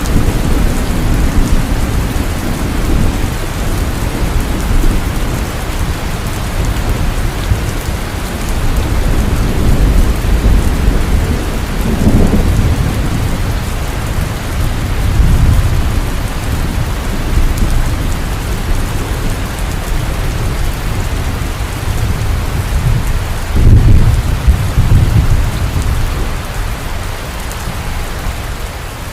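Heavy rain falling steadily, with rolls of distant thunder rumbling underneath; the loudest roll comes about three-quarters of the way through.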